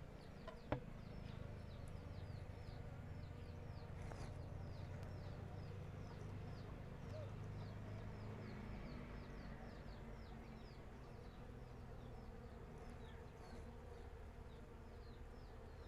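Bees buzzing in a faint, steady hum. Over it runs a regular series of short high chirps, about three a second, and there is one sharp click near the start.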